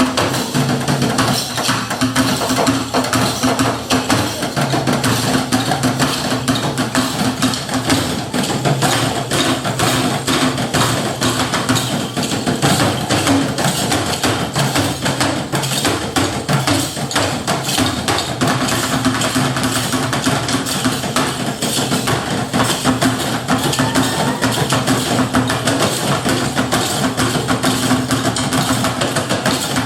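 Live percussive music: fast, dense hammer-like striking over a steady low drone.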